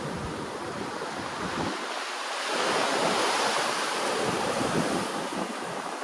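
Ocean waves washing ashore, swelling louder as a wave breaks a couple of seconds in, then easing off.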